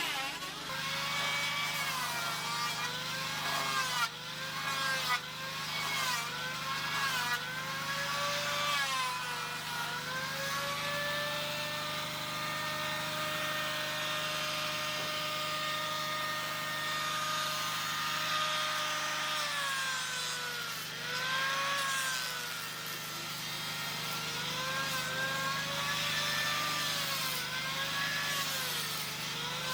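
A power tool cutting wood, its motor pitch dipping under load and recovering again and again, about once a second. In the middle it runs steadily at full speed for several seconds.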